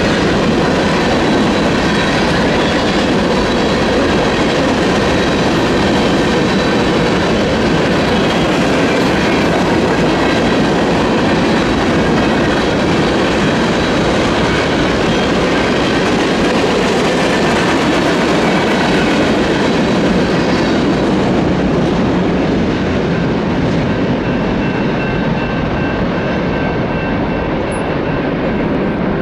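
Freight train cars rolling past, their wheels clacking over the rails in a loud, steady rumble; the sound thins out somewhat after about three quarters of the way through.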